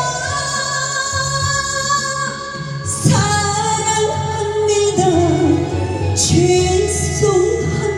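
A woman singing a Korean ballad with instrumental accompaniment: a long held note at first, then further sung phrases, with a new line near the end.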